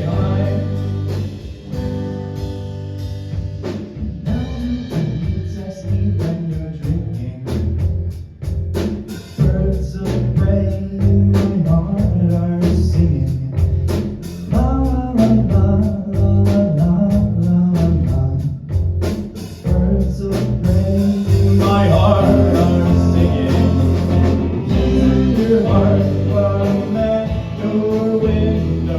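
A song played live: a singing voice over guitar, with regular drum hits.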